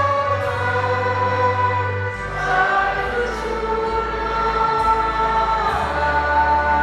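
A choir singing a slow hymn in long held notes over a sustained instrumental accompaniment. The bass note changes about two seconds in and again near the end.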